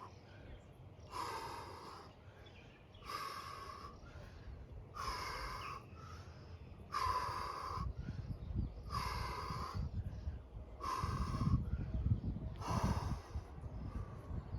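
A man's sharp, forceful breaths out, one about every two seconds, seven in all: the paced breathing of someone working through repetitions of a bodyweight exercise. A low rumble comes in about halfway through.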